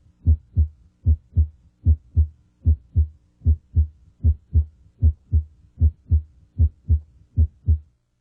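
Heart sounds at the mitral area: steady lub-dub pairs at about 75 beats a minute. The first sound of each pair, S1, comes from closure of the mitral valve and is louder here than S2. The beats stop shortly before the end.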